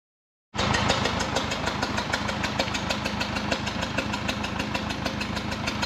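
Engine of a Case 350B crawler dozer running steadily with a rapid, even knocking, cutting in suddenly about half a second in.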